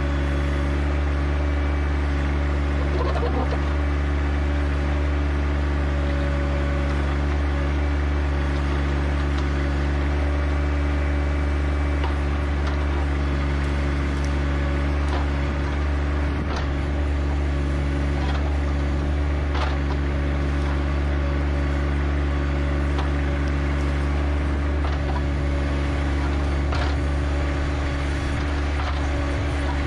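John Deere 1025R compact tractor's three-cylinder diesel engine running steadily at a constant speed, with a few short knocks and clanks.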